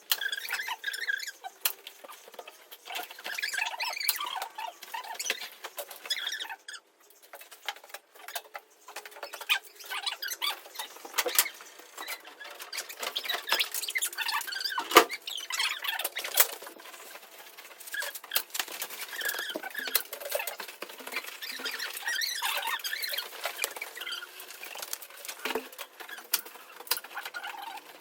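Irregular rustling and scratching, with many scattered sharp clicks and taps and one louder knock around the middle, as of material being handled and worked by hand.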